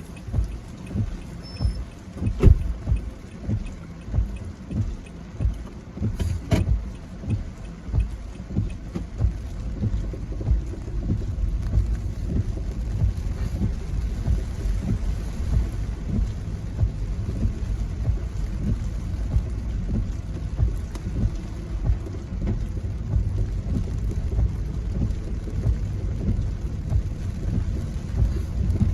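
Car driving in rain, a steady low road and engine rumble heard from inside the cabin. A regular thump comes about once a second for the first dozen seconds, then the rumble grows steadier and a little louder.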